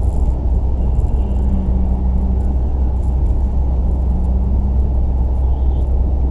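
Car engines at a drag strip, heard as a steady, heavy low rumble with a faint held engine tone now and then.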